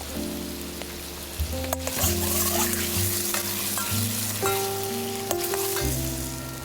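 Food sizzling in a hot frying pan as it is stirred and tossed, with sharp metal clinks against the pan. The sizzle gets louder about two seconds in.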